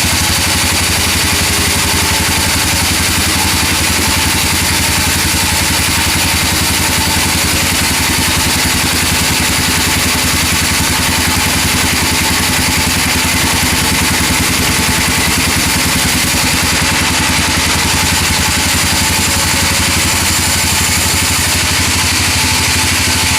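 Sawmill band saw machine running steadily, with a constant low mechanical drone.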